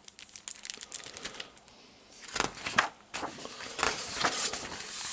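A picture book being handled and opened, its pages and cover rustling and crinkling in a run of quick crackles, loudest in two spells about two and a half and four seconds in.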